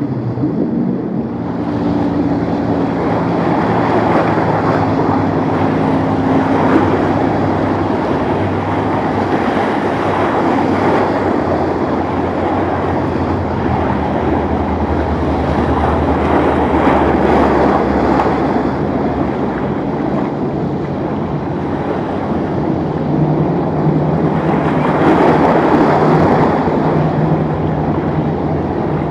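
Motorboat engines running steadily over the rush of waves and churning water, with wind on the microphone. A lower engine note comes in over the last few seconds.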